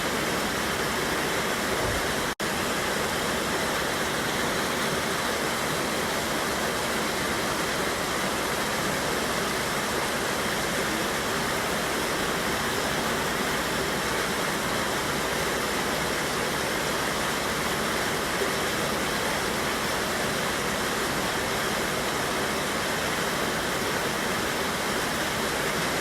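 Steady rush of a river waterfall, water pouring over rocks. A split-second dropout in the sound comes about two seconds in.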